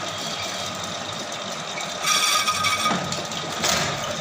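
Metal lathe running with a steady machine hum and whine. A louder, rattling burst comes about two seconds in and lasts under a second, with a shorter one near the end.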